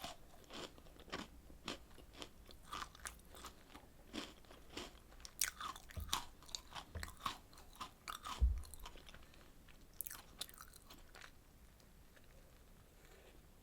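Close-miked eating of strawberry desserts: a person biting and chewing, with a run of sharp crunchy clicks about two a second and a few dull thumps in the middle, the loudest about eight seconds in. The chewing fades to quiet for the last couple of seconds.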